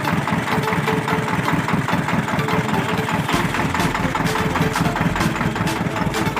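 Tractor diesel engine running steadily with a fast, even chugging; a deeper rumble comes in about halfway through.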